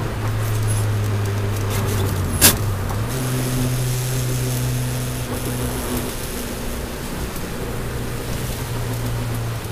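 Toyota Celica Alltrac's turbocharged four-cylinder engine heard from inside the cabin, running at speed on a wet track. There is a sharp click about two and a half seconds in. The engine note then steps up in pitch, fades under road and tyre noise for a few seconds through the corner, and comes back steady near the end.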